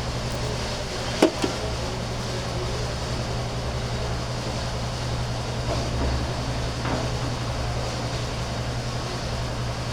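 Steady low mechanical hum, like an air conditioner or fan, with a sharp click a little over a second in, a softer one just after, and a few faint taps later.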